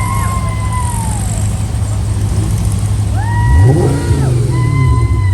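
Volkswagen engines running in a parade, with one revving up sharply about halfway through. A high siren-like tone repeatedly rises, holds about a second and falls away over the engine sound.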